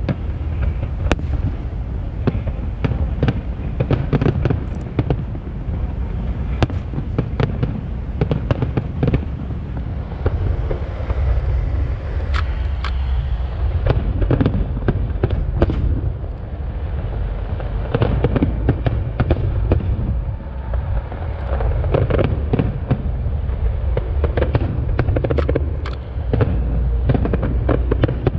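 Aerial firework shells bursting in a dense barrage: an irregular run of many sharp bangs over a continuous low rumble.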